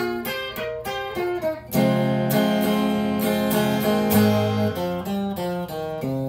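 Acoustic guitar playing the closing bars of a country ballad, single picked notes at first, then fuller strummed chords with ringing bass notes from about two seconds in.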